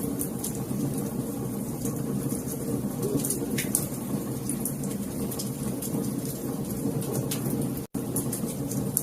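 Wood fire crackling: scattered sharp pops and snaps over a steady low rumble of burning. The sound drops out for a split second near the end.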